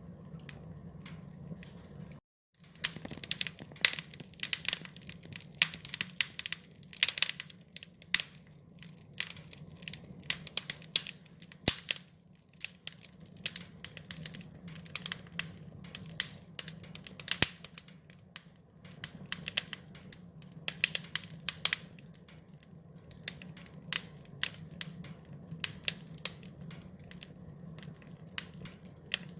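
Wood fire crackling, with irregular sharp pops and snaps over a steady low rumble. There is a brief moment of total silence about two seconds in.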